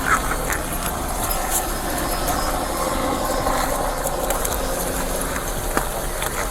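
Steady hum of a vehicle engine idling, with a few faint clicks.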